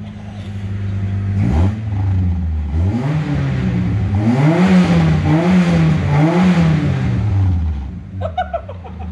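Car engine idling, then revved repeatedly: its pitch rises and falls four or five times before dropping back toward idle near the end. The engine is being revved after the wash to blow water out of the exhaust.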